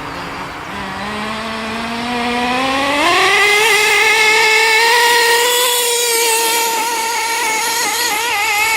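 Small nitro (glow-fuel) two-stroke engine of a Reely Rex RC car. It picks up revs about three seconds in, then holds a high, steady buzz at full throttle and wavers briefly near the end.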